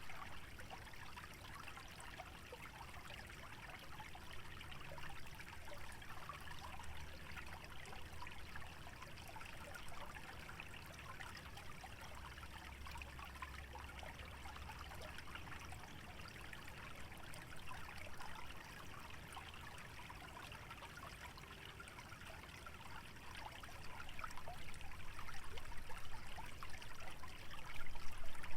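Small stream trickling and bubbling through a wetland, a steady water sound over a low rumble, swelling louder near the end.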